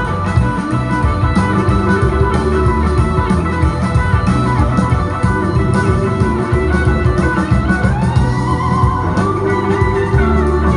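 Live band playing an instrumental passage: a guitar line over drum kit and deep bass. About eight seconds in, a guitar note slides upward in pitch.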